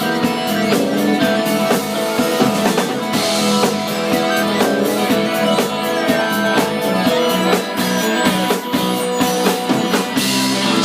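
A rock band playing live: drum kit and guitar carry an instrumental passage, with no singing.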